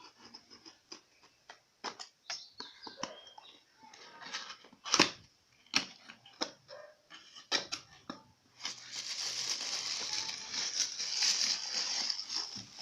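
Hair dryer packaging being opened by hand: scattered clicks and knocks of the box being handled for about eight seconds, the loudest about five seconds in, then a continuous rustle of packaging being pulled open.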